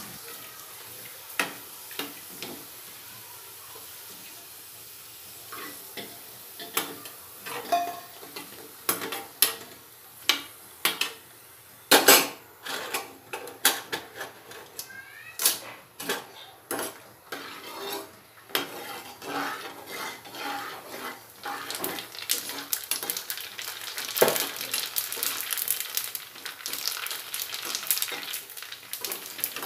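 Ready-made golgappa puris frying in hot oil in a steel kadhai: a steady sizzle, with many sharp clinks of a metal slotted spoon against the pan and a steel bowl as the puffed puris are stirred and lifted out. The loudest clinks come about 12 and 24 seconds in.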